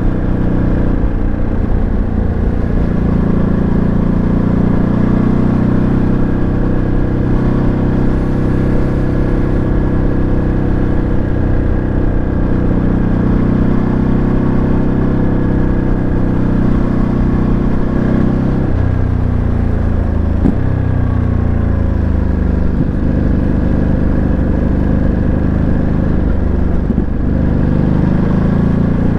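Ducati Monster 937's Testastretta 937 cc V-twin heard onboard while riding, the engine note climbing slowly under throttle. About two-thirds of the way through the pitch drops abruptly, then rises and falls again with the throttle.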